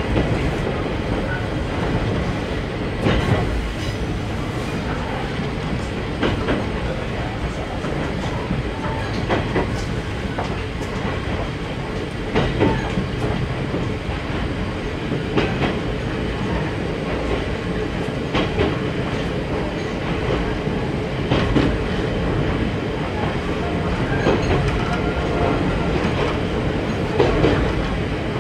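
Ichibata Electric Railway 3000-series electric railcar (ex-Nankai 21000 series), heard from inside the car, running at steady speed over jointed rail: a continuous rumble of wheels and motors, with a clack of the wheels over a rail joint about every three seconds.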